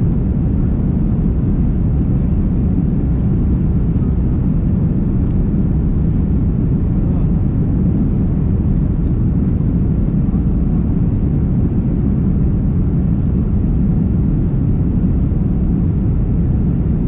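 Airbus A330-300 jet engines and airflow during takeoff: a steady, loud, low rumble that holds even throughout.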